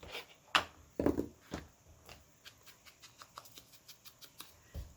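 Paper craft materials being handled at a table: a few sharp paper rustles and crinkles, then a run of small quick ticks and a soft thump near the end.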